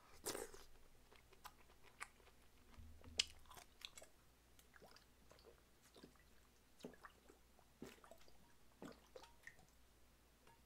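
Faint close-up mouth sounds: a man chewing a mouthful of boiled pork offal, then gulping makgeolli straight from the bottle. Scattered soft clicks, with a slightly louder one just after the start, and about one gulp a second in the second half.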